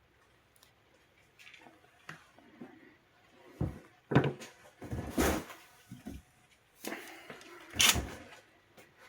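Irregular knocks, clatter and scrapes of hard objects being handled, with the loudest strokes about four, five and eight seconds in.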